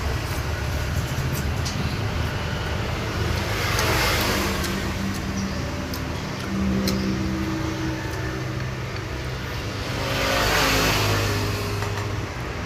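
Road traffic: a steady low engine rumble, with a motor vehicle passing about four seconds in and another near the ten-second mark, each swelling up and fading away.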